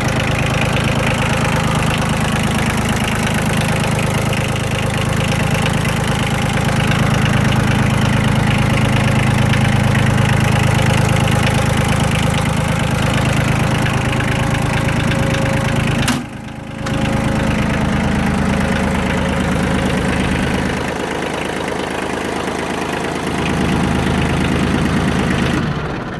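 Yanmar F165D compact tractor's diesel engine running steadily, sounding healthy. The sound cuts out briefly about sixteen seconds in, then resumes.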